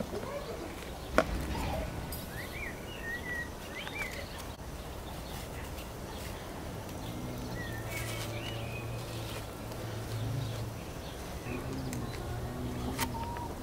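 Small birds chirping in short calls, with one sharp click about a second in and a low hum in the second half.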